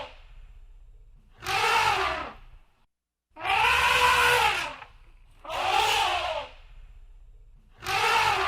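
Elephant trumpeting: four loud calls of about a second each, roughly two seconds apart. Each call rises and then falls in pitch.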